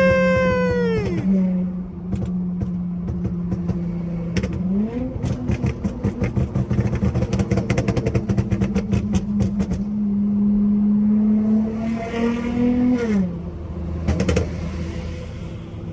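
Dodge Charger SXT's V6 engine with a pop-and-burble tune, revving up and falling back twice. Each time the revs drop, the exhaust gives a rapid run of crackles and pops, the burbles the tune is meant to make.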